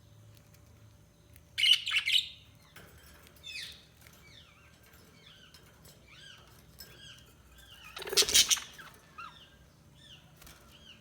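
Budgies chirping: a string of short, quick chirps that bend up and down in pitch, with two loud, rough bursts, one about two seconds in and one about eight seconds in.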